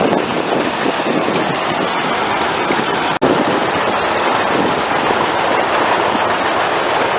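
Antique tractor engine running loud and close, a dense steady racket with a momentary dropout about three seconds in.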